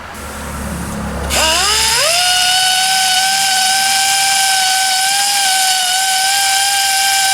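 A small power tool's motor spins up about a second in, its whine rising quickly in pitch and then holding a steady high pitch for about six seconds. It is being used to straighten up damaged tabs on the spindle washer.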